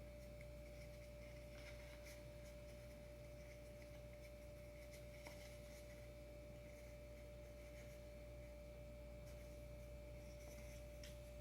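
Near silence: room tone with a faint steady whine and low hum, broken by a few light clicks.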